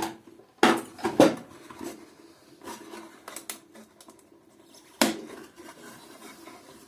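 Knocks and clatter of wooden workpieces and tools being handled on a workbench. There is a quick group of three knocks about a second in, a few light clicks around three seconds, and one sharp knock about five seconds in.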